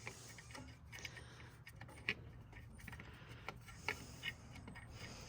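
A loose bolt being unscrewed from an old ATV, a long bolt taking many turns, giving scattered faint metallic clicks and ticks.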